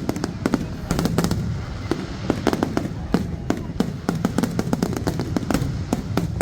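Fireworks display going off: a rapid, irregular stream of sharp bangs and cracks, several a second, over a steady low rumble of the barrage.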